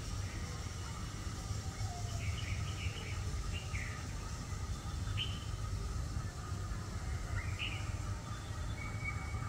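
Small birds chirping in short, separate calls every second or two over a steady low rumble.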